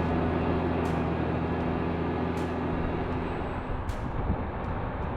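Tractor diesel engine running steadily with a low hum that fades out about three seconds in, leaving a rough rumbling noise.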